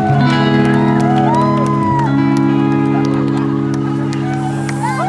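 Live rock band holding sustained electric guitar chords in a large hall, the chord changing near the start and again about two seconds in, with the crowd cheering and whooping over it.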